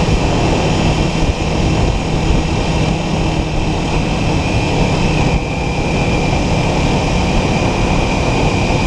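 Wind rushing over the helmet microphone, with a Kawasaki Ninja 400's parallel-twin engine running steadily at cruising speed.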